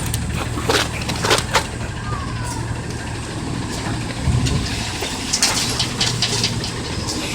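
Autocar ACX garbage truck with a Heil body, its engine running steadily, with a series of sharp cracks and knocks: several in the first second and a half, then another cluster about five to six and a half seconds in, as refuse is handled and crushed.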